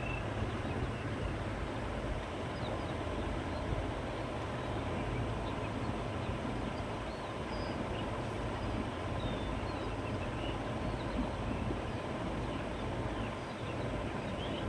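Steady countryside wind blowing through grass and trees, with a low rumble, and faint bird chirps scattered throughout.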